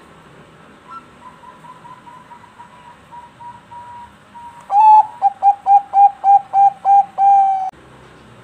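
Zebra dove (perkutut) singing: a soft run of quick notes starts about a second in, then near the middle the loud song begins, about ten short clipped coos in quick succession that end on one longer drawn-out note.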